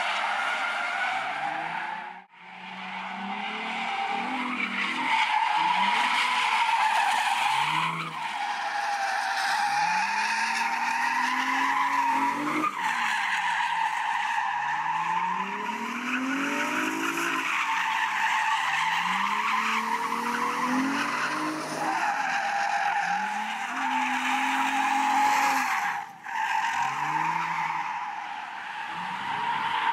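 Nissan Fairlady Z (Z33) with its stock 3.5-litre V6 drifting: tyres squealing in a wavering high whine while the engine revs climb and fall again every few seconds. The sound drops out sharply twice, about two seconds in and near the end.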